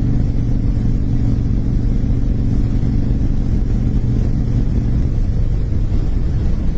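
Car driving steadily: an even, low engine and road rumble with no change in pitch.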